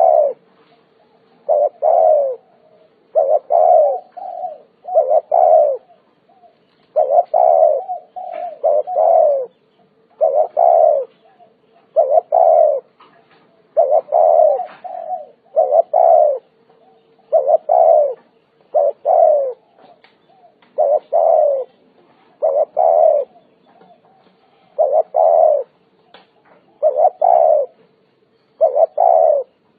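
Spotted dove cooing over and over: low, hoarse coo notes in short groups of two or three, one group every second or two.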